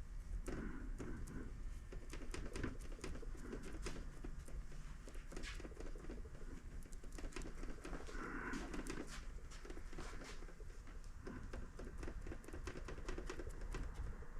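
Faint, irregular small taps, clicks and rustles of hands working fiberglass cloth and resin into a cracked plastic dash panel.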